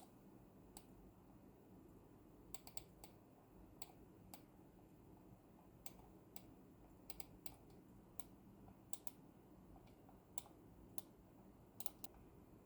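Incott GHERO Pro gaming mouse buttons clicking: about twenty short, crisp clicks at irregular intervals, some single and some in quick doubles and triples.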